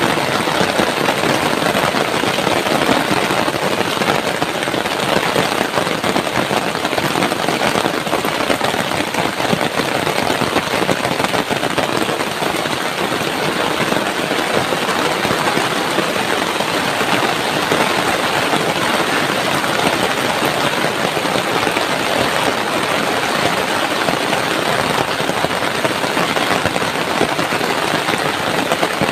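Heavy tropical rain falling steadily, a dense even hiss with no let-up.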